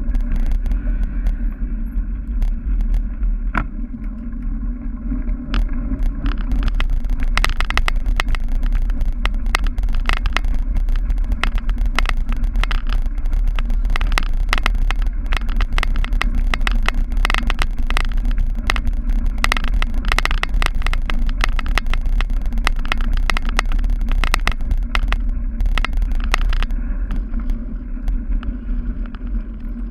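A cyclocross bike ridden hard over rough dirt and grass, heard from a camera on the rider or bike: steady wind and tyre rumble, with dense rattling clicks from the bike jolting over bumps that are thickest through the middle stretch.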